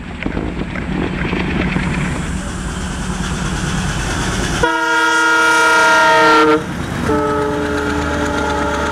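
A train running with a steady rumble, then a locomotive horn sounds a loud blast of about two seconds. After a short break a second, lower-pitched horn blast follows and carries on past the end.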